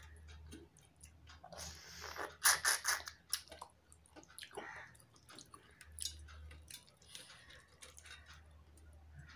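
Close-up chewing and wet mouth sounds of a person eating hilsa fish and rice by hand. A quick run of sharp, crunchy clicks comes about two to three seconds in, with scattered smaller clicks and smacks after it.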